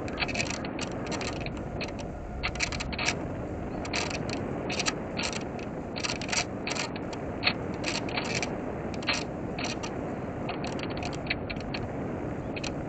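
Air rushing past a small electric RC plane's onboard camera in a glide, with no steady motor tone, broken by many short, irregular whirs from its micro servos working the control surfaces.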